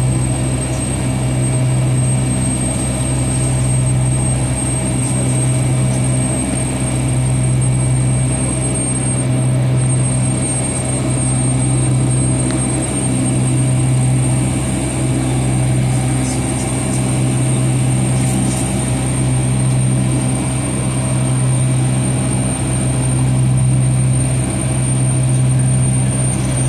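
Steady cabin drone of a Boeing 757-251 heard from a passenger seat, with its engines running at low power: a constant low hum under a thin high whine and an even rush of air.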